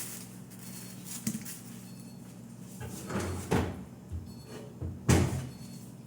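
A door or drawer being handled: a sharp knock about a second in, then heavier thumps and bumps around three and a half and five seconds in, over a steady low hum.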